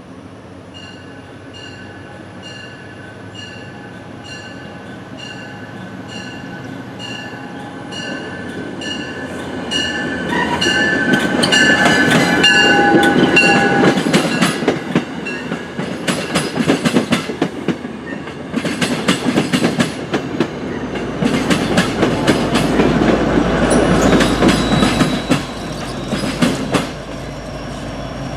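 Grade-crossing bell ringing in even strokes, about one and a half a second, as a passenger train comes up and passes. The train's noise builds and then drowns the bell, and its wheels clatter over the rail joints in quick runs for most of the second half.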